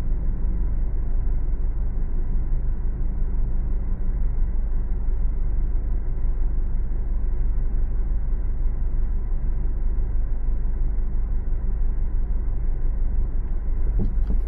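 Steady road noise of a car driving: low tyre and engine rumble with a faint hum, even throughout. A brief tick near the end.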